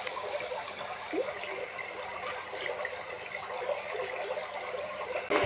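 Aquarium water trickling steadily.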